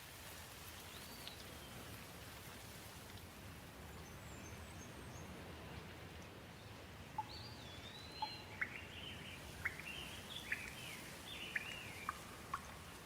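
Gentle rain falling as a steady hiss, with birds chirping over it, the calls busier in the second half among a run of sharp ticks.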